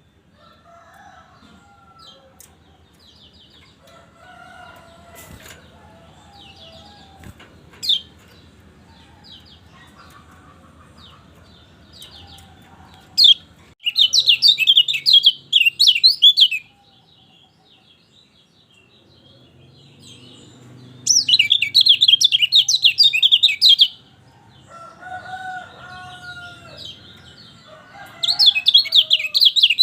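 Kecial kuning (a white-eye) singing in loud, rapid, high twittering phrases of two to three seconds each, three times: about halfway through, about two-thirds through, and near the end. Quieter chirps and softer, lower calls come between the phrases.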